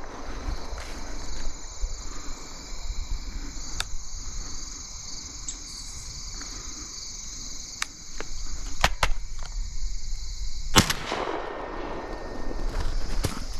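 Steady high chirring of field insects such as crickets, with a few light clicks and, about eleven seconds in, a single sharp shotgun bang that echoes briefly.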